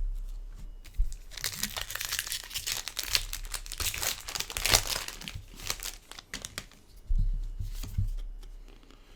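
Foil booster-pack wrapper crinkling and tearing as a Magic: The Gathering pack is torn open, in a dense crackle over a few seconds, followed by a few soft handling thumps.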